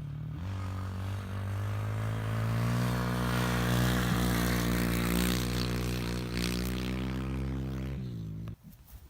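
Pit bike engine revving up and running hard for several seconds, its pitch rising at first, then dropping slightly before the sound cuts off suddenly near the end.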